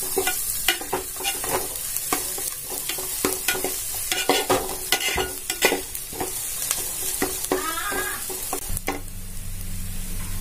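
Chopped onions frying in oil with mustard seeds, dals and dried red chillies in an aluminium kadai, sizzling steadily. A perforated steel ladle scrapes and knocks against the pan in quick stirring strokes. A low steady hum comes in near the end.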